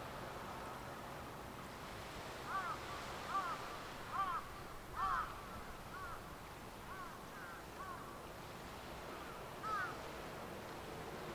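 A bird calling in a run of short calls that rise and fall in pitch, about one a second, loudest in the middle, with one more near the end, over a steady background hiss.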